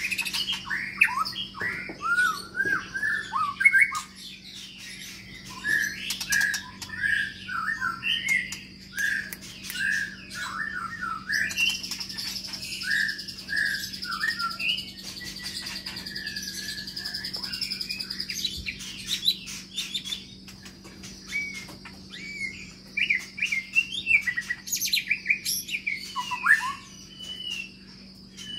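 White-rumped shama (murai batu) singing a long run of short, varied whistled phrases, with a long, high, continuous trill through the middle.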